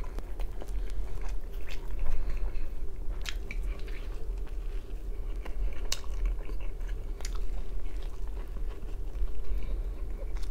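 Close-miked chewing of a mouthful of thin-crust pizza: wet mouth sounds with a few sharp crunchy clicks spread through, over a steady low hum.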